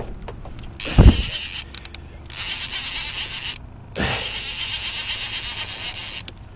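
Fishing reel whirring in three bursts, with short gaps between, while a hooked striped bass is played on the line. A dull bump comes as the first burst starts.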